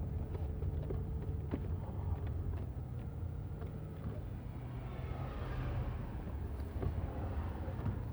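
Steady low vehicle rumble from a ride along city streets, with scattered small clicks and knocks.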